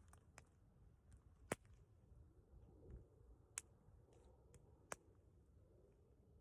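Near silence with a few sharp, isolated clicks, three of them louder, spaced a second or more apart.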